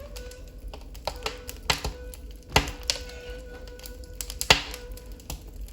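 Wood fire in a fireplace crackling, with irregular sharp pops, the loudest a little over two and a half and four and a half seconds in. Underneath, ney music holds a long low note.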